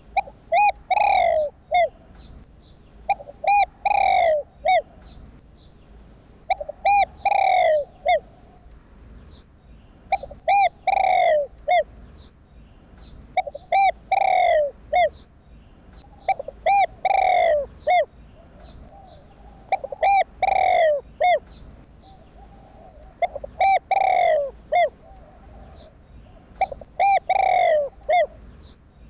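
Spotted dove (Streptopelia chinensis) cooing. Each phrase is three or four short coos ending in a longer falling coo, and the phrase repeats nine times, about every three and a half seconds.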